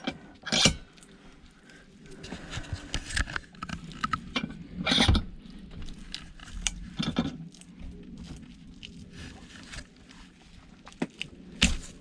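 Irregular scraping, clicks and knocks of metal being worked by hand as a hacksawed copper-wound part is prised apart.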